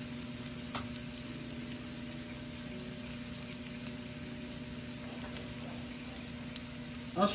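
Potatoes frying in butter in a skillet: a steady sizzle with a constant low hum beneath it and a couple of faint clicks.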